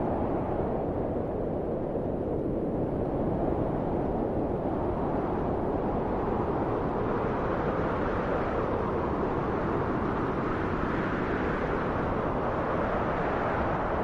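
Wind blowing as a steady low rushing noise, swelling and brightening a little about eleven seconds in.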